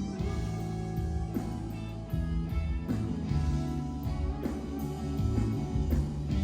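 Rock band playing an instrumental passage between sung verses: sustained guitar notes over bass, with regular drum hits.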